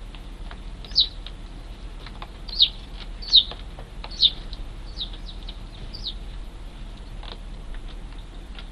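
Young Eurasian tree sparrows chirping: about six short, sharp, falling chirps, the four loudest in the first half.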